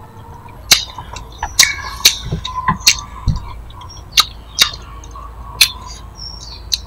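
A person chewing food with the mouth close to the microphone: irregular wet clicks and lip smacks, roughly one or two a second.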